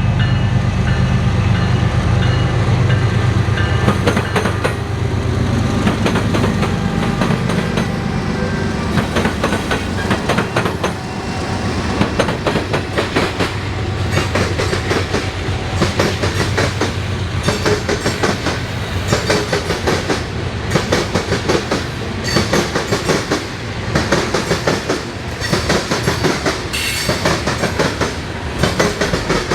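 A train passing close by. First its diesel locomotive engines hum, then the cars follow, their wheels clacking in a steady run over the rail joints.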